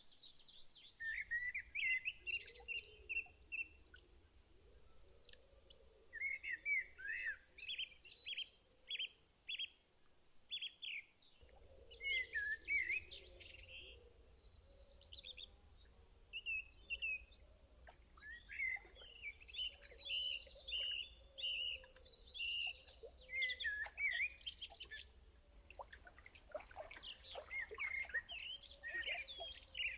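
Several songbirds chirping and calling in woodland, with short repeated notes and rapid trills overlapping throughout.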